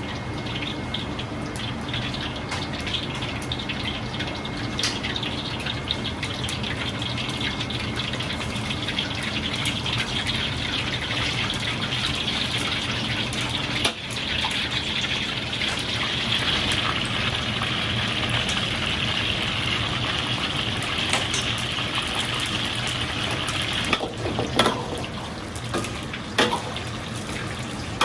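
Frog legs deep-frying in hot oil: a steady crackling hiss, with a few sharp knocks near the end.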